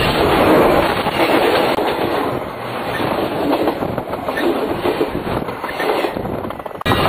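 Train cars rolling directly overhead, heard from between the rails: a loud, steady rumble and rattle of wheels on the track. Near the end it breaks off and starts again abruptly.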